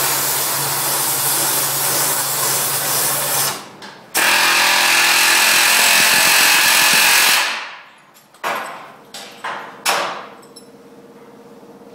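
Electric power tool running in two bursts of about three and a half seconds each; the second slows down as it cuts off. A few sharp knocks follow near the end.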